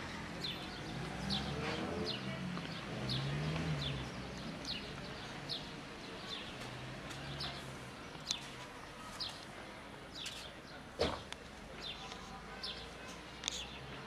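Small songbird chirping over and over, short high chirps about twice a second. A single sharp click about eleven seconds in is the loudest sound.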